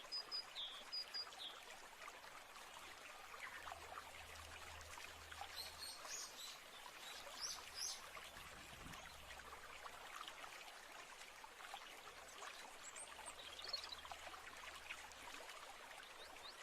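Faint, steady trickling of a stream, with birds chirping now and then: a quick repeated chirp at the start, a few high calls around the middle and another near the end.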